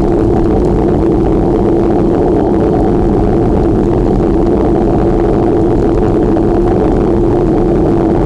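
Loud, steady rushing noise of riding a bike: wind on the microphone and tyre rumble, with a constant low hum.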